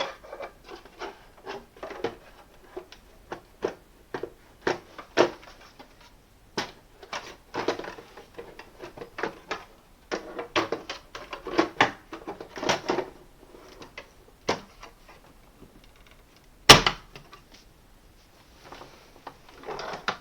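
Plastic parts of a Hoover Complete Performance bagged vacuum cleaner's door being fitted by hand: a string of irregular light clicks, knocks and rattles, with one sharp, loud snap about three-quarters of the way through as the door goes into place.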